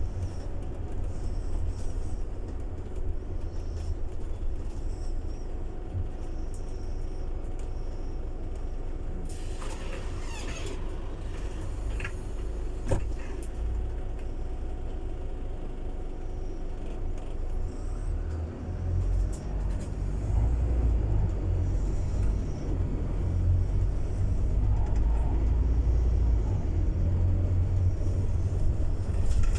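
Scania city bus running with a steady low rumble. A burst of hissing comes about ten seconds in, a sharp knock follows a few seconds later, and the low engine rumble grows louder about two-thirds of the way through.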